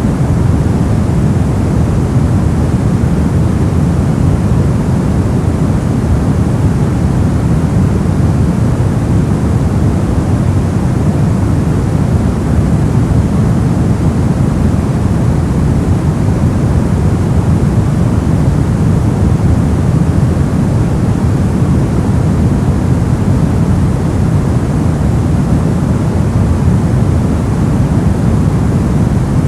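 Steady ambient white noise, an even rushing hiss weighted toward the low end so it sounds deep rather than bright, with no change in level or pitch.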